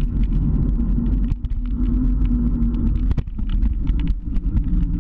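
Motor scooter engine running while riding, its pitch holding fairly steady, with many short knocks and clicks over a heavy low rumble.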